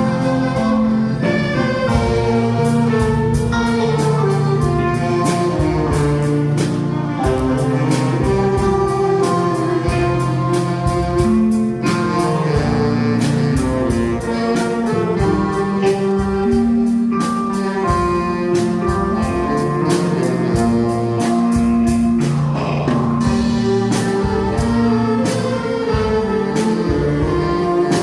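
A band playing an instrumental Korean ballad: a sustained melody line over a steady beat and chords.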